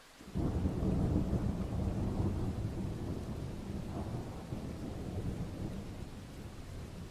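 A roll of thunder breaks in suddenly over steady rain, a deep rumble that is loudest in its first couple of seconds and then slowly dies away.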